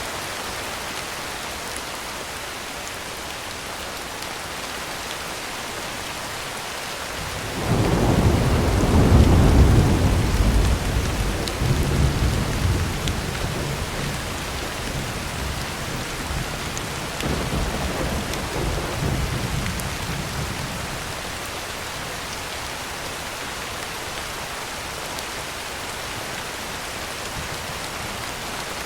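Steady heavy rain on a tin roof, with a roll of thunder that breaks in suddenly about a quarter of the way through, rumbles deep and loud for several seconds, swells again briefly and fades back under the rain.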